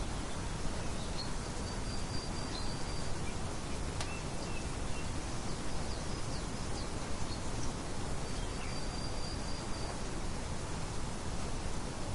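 Birds chirping with short high calls over a steady rushing background noise, with a couple of longer high trills.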